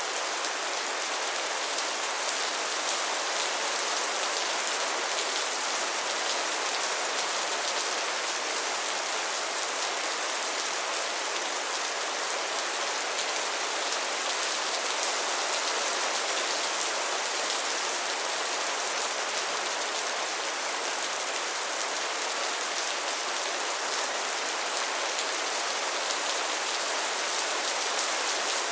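Steady rain falling on a surface, a dense even patter of drops that does not change.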